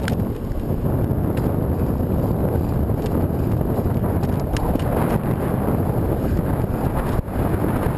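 Wind buffeting the microphone of a camera on a moving bicycle ridden into a headwind, a steady low rumbling rush. A few faint clicks and ticks from the bike and road run through it.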